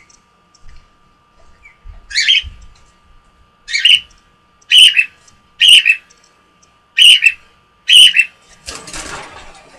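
Gray male cockatiel squawking loudly, six harsh calls roughly a second apart: contact calls given because its owner has left its sight. A short rustling noise follows near the end.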